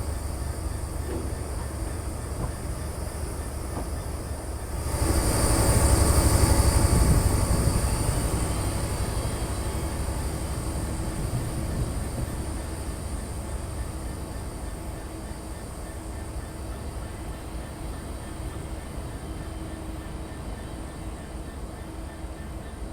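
Train running on the rails with a steady low rumble. About five seconds in it grows suddenly louder, with added high-pitched noise, then fades slowly back to a steady run.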